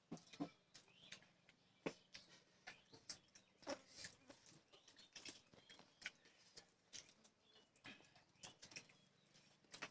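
Faint, close-up mouth sounds of a person eating: irregular chewing clicks and lip smacks, several a second.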